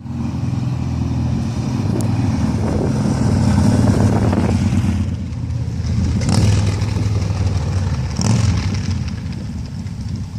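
A vehicle engine running steadily, with two brief rushes of noise about six and eight seconds in.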